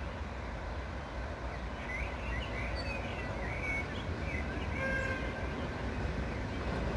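Birds chirping over a low, steady rumble that grows slightly louder as a train approaches from far down the line.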